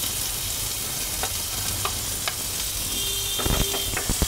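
Chopped onion sizzling as it fries in hot tempering oil with cumin seeds in a nonstick pan. From about three and a half seconds in, a spatula knocks and scrapes against the pan several times as the onion is stirred.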